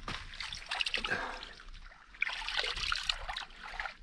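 Spring water trickling and splashing, with an irregular patter that eases briefly about halfway through and then picks up again. The water flows from an underground spring.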